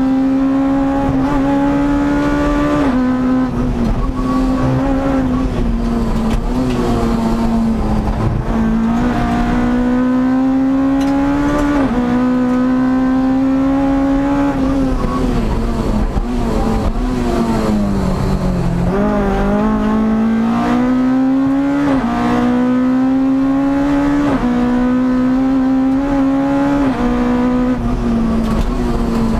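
Rally car's engine pulling hard, heard from inside the cabin: the pitch climbs through each gear and drops sharply at each shift, several times over. About two-thirds of the way through the pitch falls further, then climbs again.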